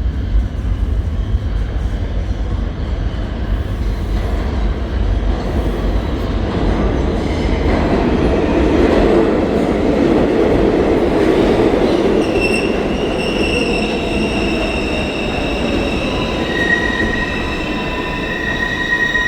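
New York City Subway train running on steel rails, a loud rumble that swells about halfway through. About two-thirds of the way in, several high, steady squealing tones from the wheels on the rails set in and hold to the end.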